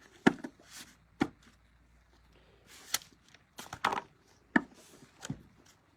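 Tarot cards being handled and laid down on a table: about half a dozen sharp, irregular taps and slaps with short quiet gaps between them.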